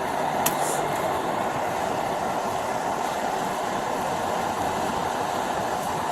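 Steady rushing noise with no clear pitch, and a single brief click about half a second in.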